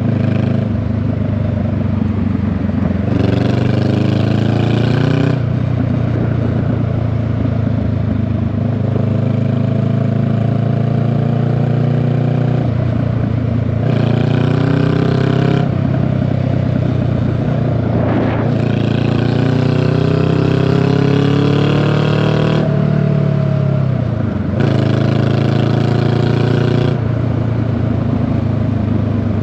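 Honda Rebel 500 parallel-twin motorcycle's exhaust under way. The engine pitch climbs several times and drops back between climbs as the rider accelerates and shifts gears.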